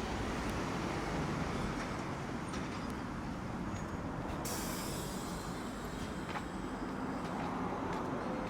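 Tosaden streetcar running along its rails: a steady rumble of wheels and running gear, with a few light clicks.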